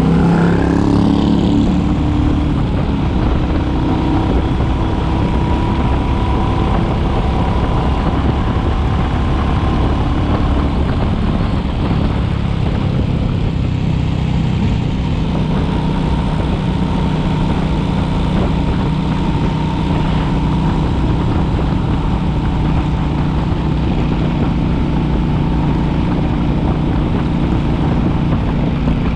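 Royal Enfield Classic 350's single-cylinder engine running under way, shifting pitch briefly at the start and then holding a steady note.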